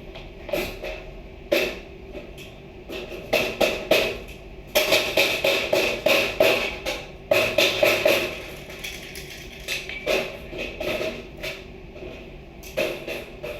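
Irregular knocking and clattering of hard objects being handled and struck, some single knocks and some in quick runs, busiest in the middle.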